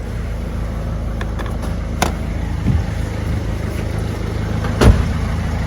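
Peugeot 207 engine idling steadily, with two sharp knocks about two and five seconds in, the second the louder.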